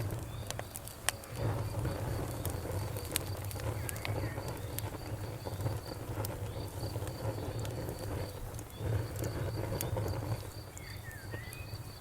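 Wood fire crackling, with irregular sharp pops over a low rumble. A steady, rapid high-pitched chirping runs behind it.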